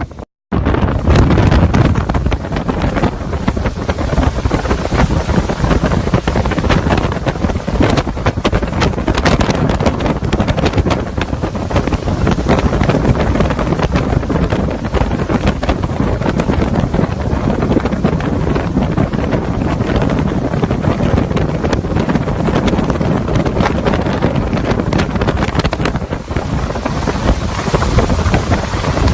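Hurricane-force wind blasting over the microphone: a loud, continuous rush of noise that swells and dips in gusts. It starts abruptly about half a second in.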